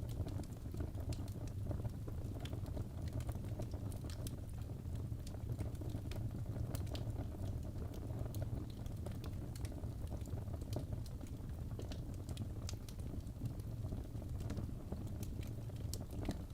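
Birch logs burning in a fireplace: a steady low rush of flame with frequent sharp, irregular crackles and pops.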